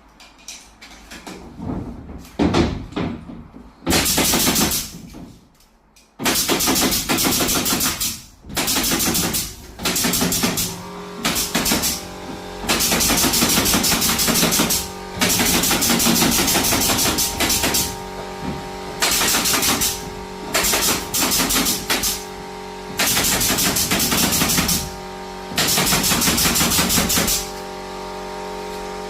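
Power tools on a carpentry job: a run of loud bursts, each a second or two long with short pauses between, after a few scattered knocks at the start. A steady machine hum joins about a third of the way in and keeps running.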